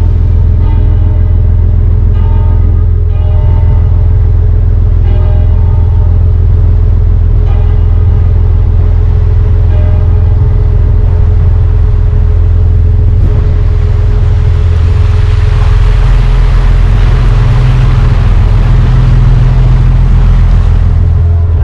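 A boat engine runs with a steady low drone. In the second half a broad rushing noise swells up and then stops abruptly near the end.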